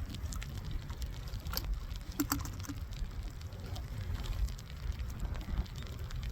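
Wind buffeting the microphone as a steady low rumble, with scattered raindrops ticking sharply on or near it; a quick cluster of ticks about two seconds in.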